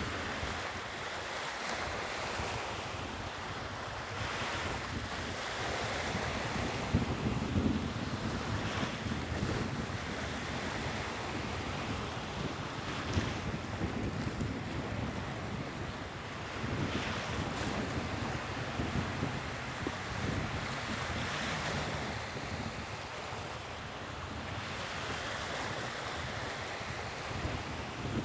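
Sea waves breaking and washing ashore in soft swells every few seconds, with wind noise on the microphone.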